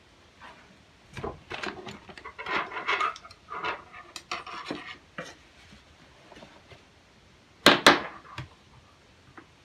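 Irregular clicking and scraping of gun-cleaning tools being handled against a stainless derringer, with two loud, sharp clicks in quick succession near the end.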